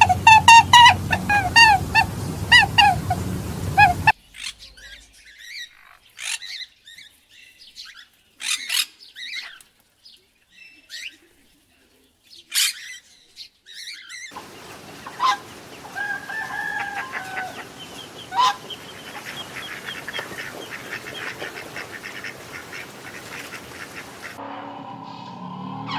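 Birds calling: a quick run of loud pitched honking calls at first, then scattered short sharp chirps with quiet between, then more calls over a steady hiss.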